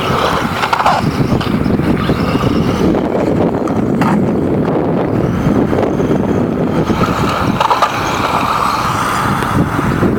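Battery-powered radio-controlled monster truck driving over pavement: its wheels rumble and rattle continuously on the hard surface while a thin electric-motor whine comes and goes as it speeds up.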